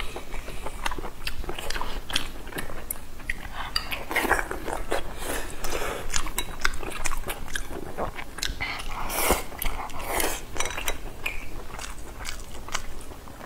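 Close-up eating sounds: biting and chewing braised pork large intestine and rice, a steady run of irregular short clicky mouth noises.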